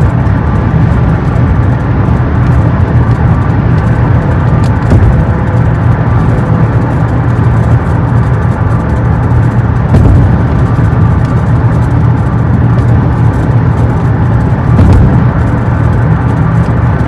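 Steady low rumble of a car driving, heard from inside the cabin: tyre and engine noise on the road.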